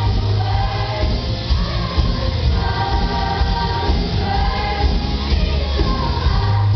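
High-school students' choir singing a song together over loud instrumental accompaniment with a strong, steady bass.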